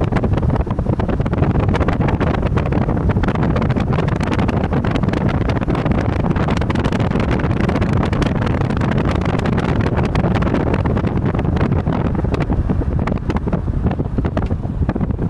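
Wind buffeting the microphone of a moving car, over steady road and engine noise. It is loud and rumbling, with constant crackle.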